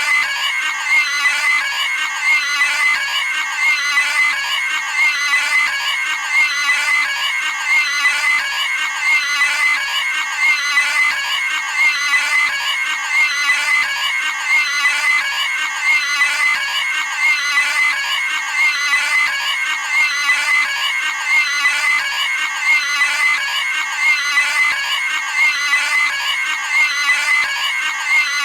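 Cartoon pig screaming sound effect: a shrill squealing scream repeated over and over in a steady loop.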